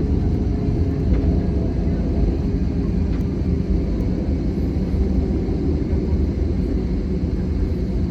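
Steady low rumble of an Airbus A320-200's engines and airframe, heard from inside the passenger cabin.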